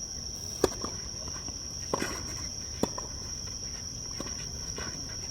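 Three sharp tennis-ball impacts, racket strikes or bounces on the court, the first the loudest, with a few fainter knocks, over a steady high chirring of insects.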